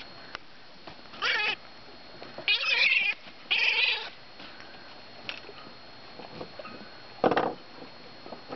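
A gull hooked through the beak by a fishing lure squawking, four harsh calls, the middle two close together and the last one short.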